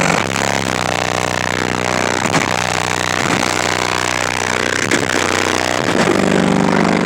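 Four 15-inch subwoofers in a ported box playing deep bass-heavy music, loud and distorted, with the bass notes shifting every second or so. Sharp clicks of vehicle panels rattling are heard now and then.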